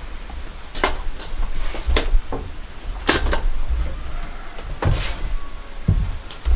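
Irregular sharp knocks and clacks, about eight in all, some in quick pairs, over a low steady rumble.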